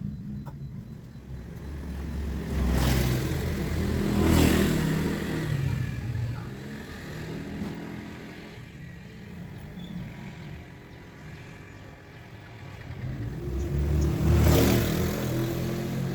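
Motor vehicles driving past twice, each one's engine and tyre noise rising and then fading, over a steady low engine hum.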